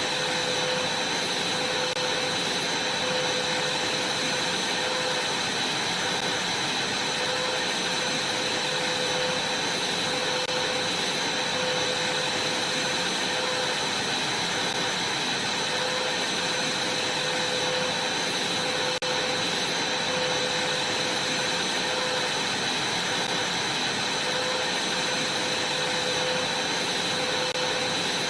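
Vacuum cleaner running steadily on a trampoline mat. It has a high whine over a constant rushing noise and a lower hum that comes and goes every second or two.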